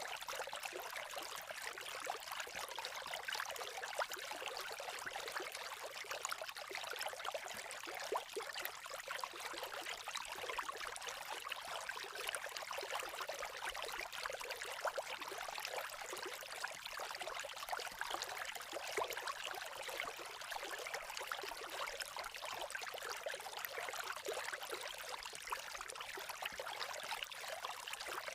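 Campfire crackling: a steady hiss thickly dotted with small pops and snaps.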